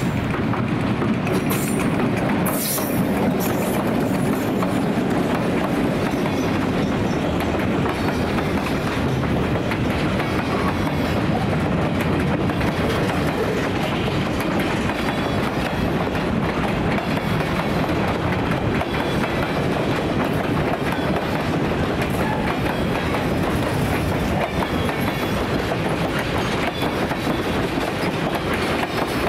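A train rolling steadily past on the track, its wheels running over the rails.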